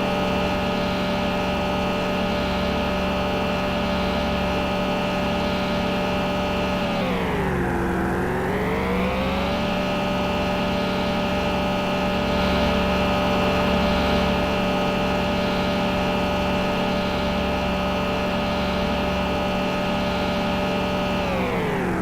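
Vehicle engine running at a steady speed, its pitch dropping and then climbing back twice, as when easing off and accelerating again.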